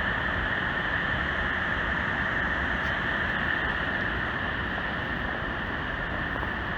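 Water of a large waterfall, the Great Falls of the Passaic River, rushing steadily: an even, unbroken noise.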